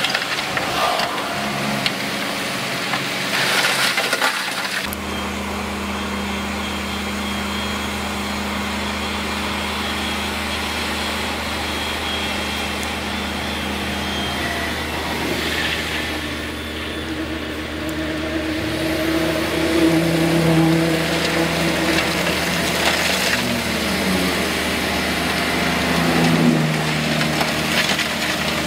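Heavy diesel earthmoving machinery running, with engine tones that rise and fall in places. Rock crunching and cracking in the first few seconds.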